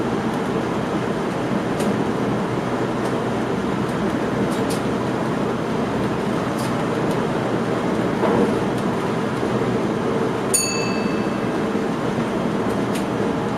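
Running noise of a passenger train heard from inside the driver's cab: a steady rumble of wheels on rails with a few faint clicks. About ten and a half seconds in comes a short, high metallic ping.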